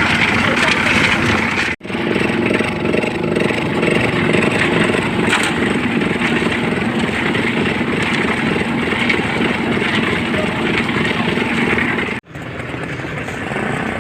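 Small concrete mixer machine running with a steady engine drone. The sound cuts out abruptly for an instant about two seconds in and again near the end.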